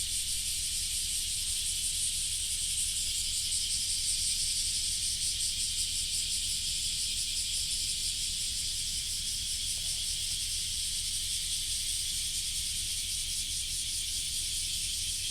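A steady, high-pitched chorus of insects: an unbroken shrill hiss with a fine rapid pulse. A low steady rumble runs underneath.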